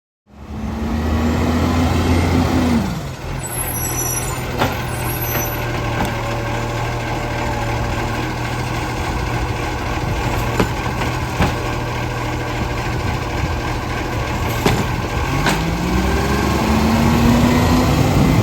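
Garbage truck's diesel engine revving, dropping back to a steady idle about three seconds in, then revving up again near the end. A brief high squeal about three and a half seconds in, and a few sharp knocks.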